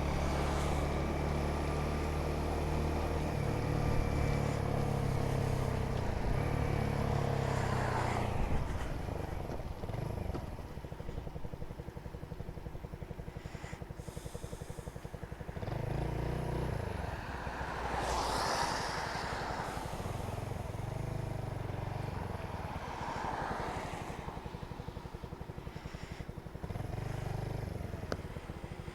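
Motor vehicle engines on a road: one engine is loud for the first eight seconds, its pitch falling slightly near the end. After that it is quieter, with several more vehicles going by.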